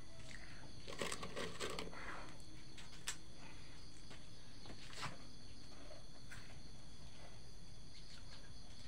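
Steady rural background of insects chirping, with a few brief clicks and crunches of someone eating about one to two seconds in, and again near three and five seconds.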